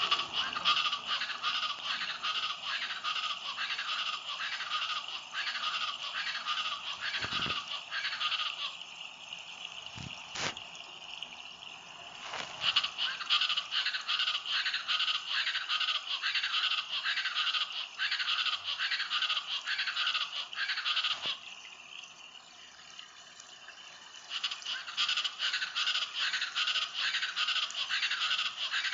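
East Brazilian chachalacas calling in chorus: repeated call notes in a steady rhythm, about two a second, in three bouts with short pauses between.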